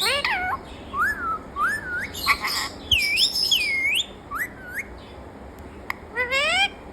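Pet parrot whistling and chirping: a string of short rising and swooping whistles, including a pair of loud dipping whistles in the middle, with a few harsher squawky calls in between.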